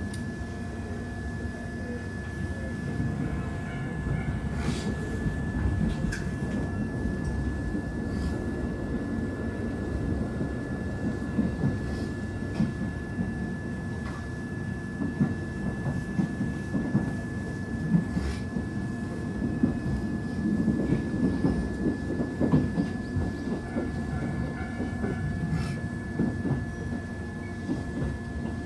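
Passenger train running, heard from inside the carriage: a continuous low rumble of the wheels on the track with scattered clacks, and a thin steady high tone throughout.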